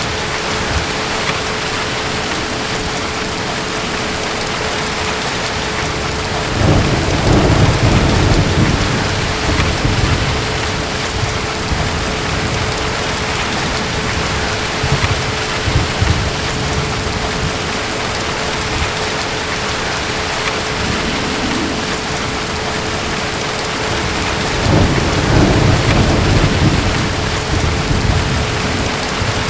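Steady heavy rain with distant thunder rumbling twice, once about seven seconds in and again near the end.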